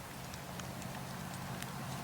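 Campfire of burning logs and coals crackling: scattered small sharp pops and snaps, several in two seconds, over a steady hiss of the fire.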